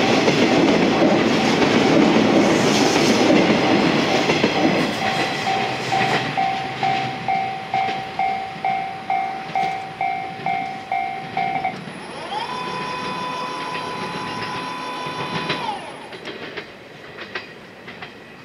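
Loud rumble of a train running close by, then a railway warning bell dinging about twice a second for several seconds, then one long train horn blast held for about three and a half seconds, rising at its start and dropping at its end, before a quieter rumble.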